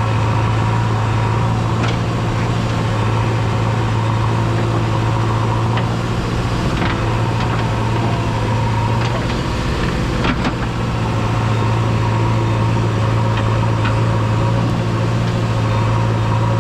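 A heavy diesel engine of farm or earth-moving machinery running steadily, its note wavering for a few seconds around the middle, with a few short sharp knocks, the loudest about ten seconds in.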